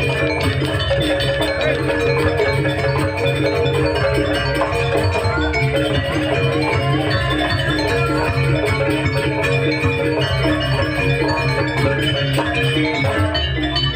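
Gamelan music for a jaranan dance: metal mallet instruments play a fast, evenly repeated pattern over a steady low drum-and-gong band, at a constant loud level.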